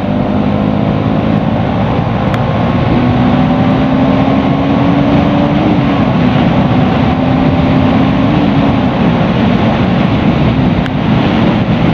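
Bajaj Pulsar NS200's single-cylinder engine running at road speed under heavy wind rush on the microphone. The engine note climbs slowly and drops back twice, about six and eight and a half seconds in.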